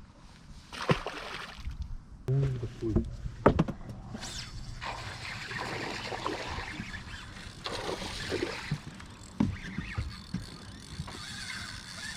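Small fishing boat noises: scattered knocks and clicks on the hull and gear, with water sloshing.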